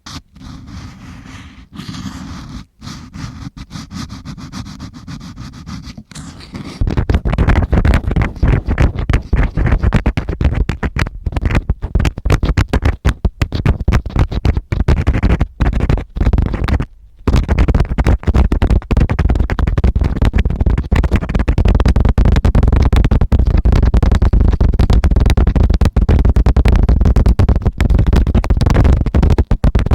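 ASMR ear cleaning done on a microphone: a tool scraping and rubbing right against the mic. It is softer for the first several seconds, then turns into loud, dense scratching about a quarter of the way in, with one brief pause a little past halfway.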